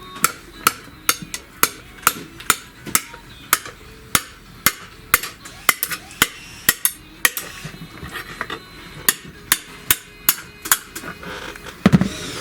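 Small hammer tapping lightly and repeatedly on a stuck rocker arm to knock it free of its carrier in a Mercedes A140 cylinder head, about two sharp metallic taps a second. The tapping stops briefly about two-thirds of the way through, then starts again, and a heavier knock comes near the end.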